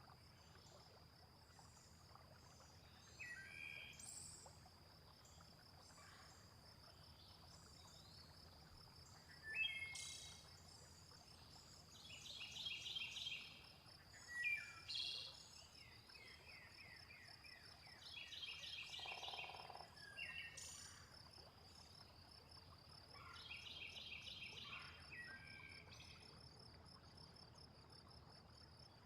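Layered nature soundscape: a cricket trilling steadily throughout, with birds calling on and off in chirps, downward sweeps and quick runs of repeated notes, and a brief low croak about two-thirds of the way through, likely a frog.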